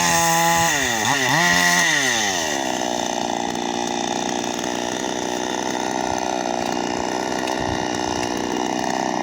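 Chainsaw engine revving high twice in the first two seconds. The pitch then drops and it runs steadily at a lower speed.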